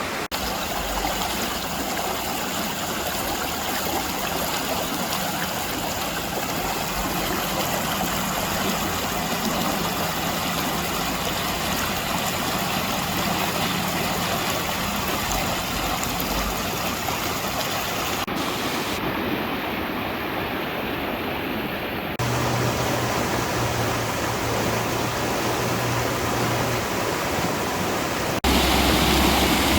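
Rapidly flowing creek water rushing over rock, a steady full rushing sound. Its tone and loudness shift abruptly a few times, where separate recordings are joined.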